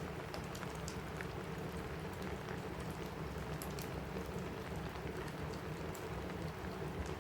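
Steady rain on a cabin roof mixed with a crackling wood fire: an even patter with scattered sharp crackles and ticks on top.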